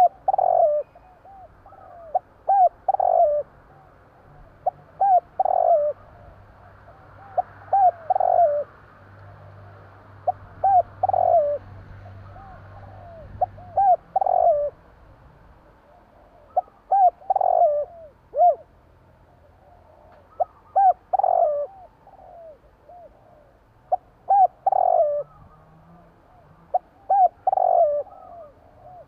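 Spotted dove (tekukur) cooing: a phrase of a few short coos ending in a longer, stressed coo, repeated about every three seconds, around ten times.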